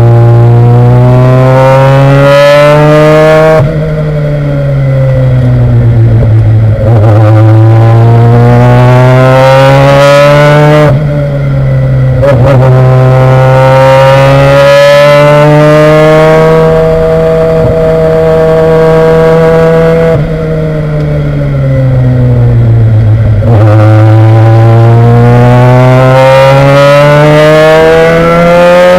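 Race car engine heard loud from the cockpit, pulling hard with its pitch climbing. Three times, about four seconds in, eleven seconds in and twenty seconds in, the throttle comes off and the revs fall away before it accelerates again.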